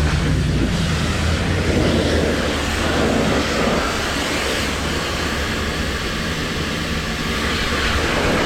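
Heavy diesel truck engine idling, with a loud, steady hiss over it.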